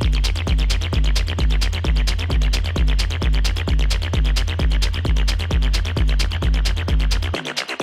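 Techno music with a steady four-on-the-floor kick drum, about two beats a second, under fast hi-hats and synth. Near the end the kick and bass drop out, leaving the hats and upper synth running.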